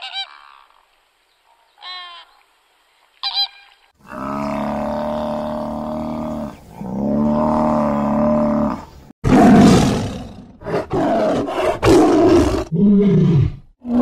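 A flamingo gives a few short nasal honks, then a water buffalo lows twice in long calls. A tiger follows with a run of loud growls and roars, the loudest part.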